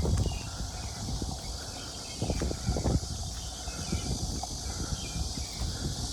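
Footsteps and rustling through undergrowth, a few heavier steps about two seconds in, over a steady outdoor hiss with faint bird chirps.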